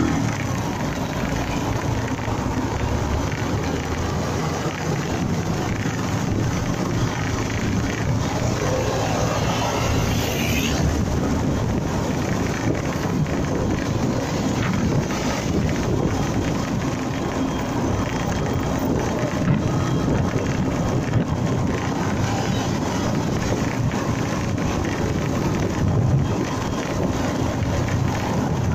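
Wind buffeting the microphone over steady road and engine noise from a motorcycle being ridden. About ten seconds in, a brief rising whine.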